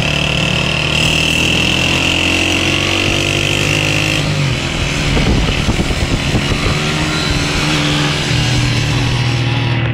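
Small motorcycle engine running at steady revs. Its pitch shifts about four seconds in, followed by a rougher, uneven stretch before it steadies again.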